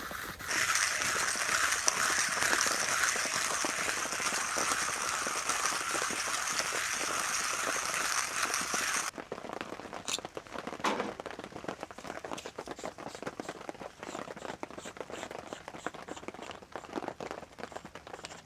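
A steady hiss for about nine seconds, then, after a sudden cut, a wood campfire crackling with scattered small pops.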